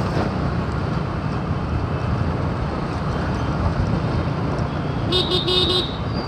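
Steady road and traffic noise heard while riding a motorcycle, with a vehicle horn honking once about five seconds in, lasting under a second.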